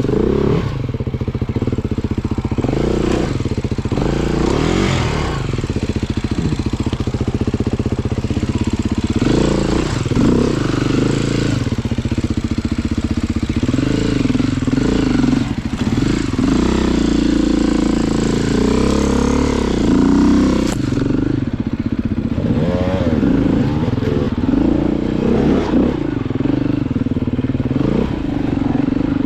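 Beta dirt bike engine revving up and down repeatedly as it is ridden along a trail.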